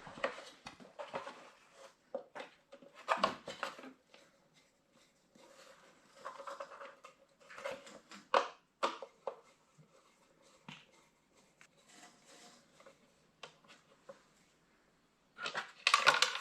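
Small scattered clicks and scrapes of a screwdriver working Phillips screws out of a tractor's plastic tail light housing, with a louder clatter near the end.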